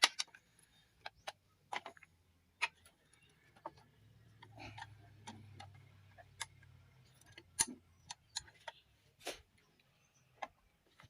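Scattered sharp clicks and taps at irregular intervals, from hand tools and parts being handled during a manual transmission teardown, the sharpest a little past the middle. A faint low hum sits under them for a few seconds in the middle.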